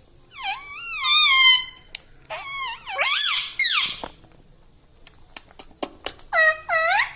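Rose-ringed (Indian ringneck) parakeet giving a string of high, squeaky whistled calls that bend up and down in pitch, the longest about a second in. A few sharp clicks come in the quieter stretch after the middle before two more short calls near the end.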